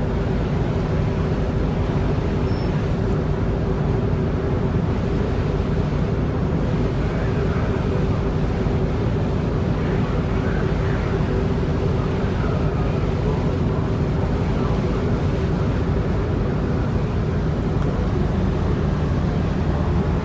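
A steady engine rumble with a constant low hum, unchanging throughout.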